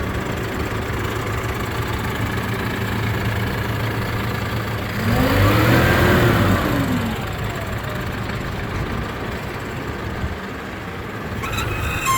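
Kubota M7-171 tractor's diesel engine idling steadily, revved up once about five seconds in and let back down to idle about two seconds later.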